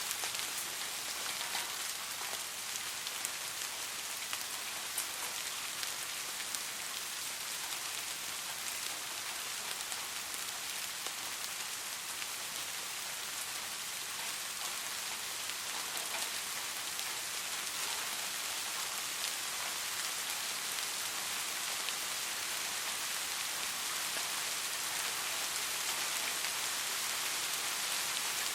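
Steady soft rain falling on a surface, an even hiss with scattered small drop ticks and no thunder.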